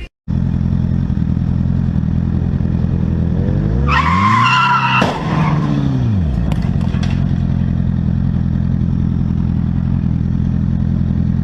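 Steady low drone of a car running on the road. A little under halfway through comes about a second of tyre squeal, while an engine's pitch rises and falls back, ending in a sharp knock.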